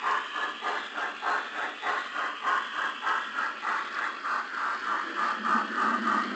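Railway locomotive on the move, giving a quick, even rhythmic beat of about four a second, with a deeper rumble joining near the end.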